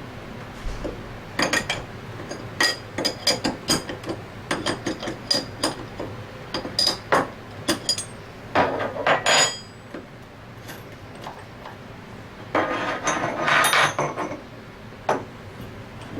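Metal tools and compressor parts clinking and tapping against each other during reassembly: a run of sharp clinks with a ringing note, with a brief rattle about nine seconds in and a longer stretch of scraping and rattling around thirteen seconds.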